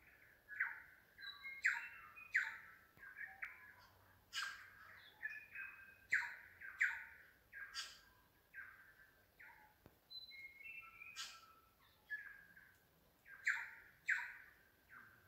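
Bird song: a busy run of short, clear notes interspersed with sharp clicks, repeating at uneven intervals of roughly one to three a second.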